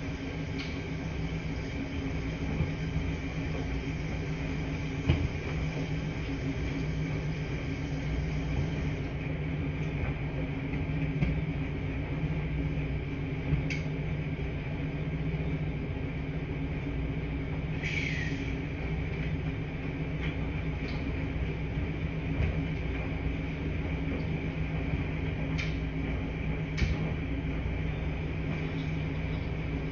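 Washing machines running in a laundry room: a steady mechanical hum with a low rumble, broken by a few light clicks and one brief squeak.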